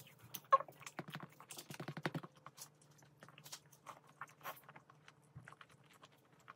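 Close-miked chewing of a mouthful of mini gimbap: a run of small wet mouth clicks and smacks, busiest a second or two in, then sparser.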